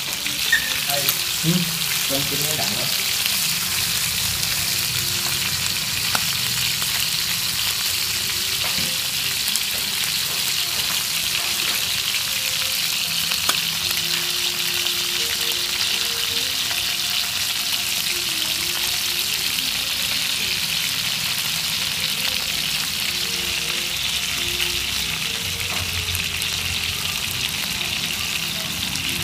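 Pieces of field rat meat frying in hot oil in a nonstick pan: a steady sizzle, with a few sharp clicks in the first couple of seconds.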